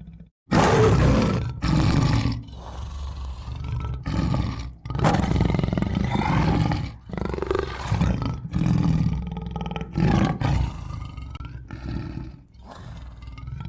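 Tiger roaring repeatedly: a string of loud roars a second or two apart, starting about half a second in, with growling between them, dying away near the end.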